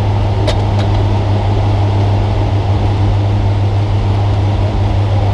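Spec Trophy Truck's engine and drivetrain heard from inside the cab: a loud, steady low drone that holds one pitch, with a single click about half a second in.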